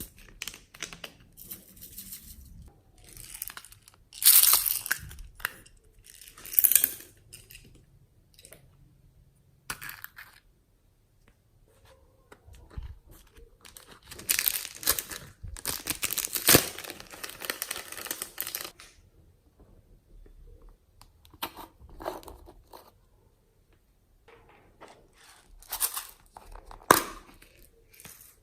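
Hands squishing, stretching and pulling slime, as several slimes are mixed together. The sound comes in irregular bursts with short quiet pauses between them, and the longest run of sound is in the middle.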